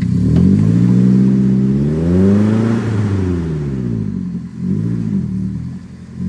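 Off-road 4x4's engine revving under load, its pitch climbing to a peak about two and a half seconds in and falling away, then a shorter rev near the end, as the vehicle crawls over an obstacle with its differential locker switched on.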